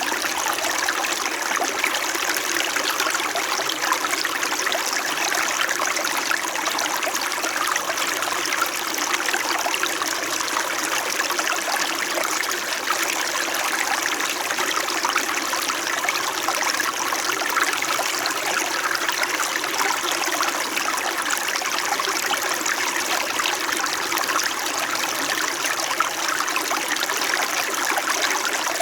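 Small mountain stream babbling and trickling steadily over stones, a constant splashing rush with a fine bubbling texture.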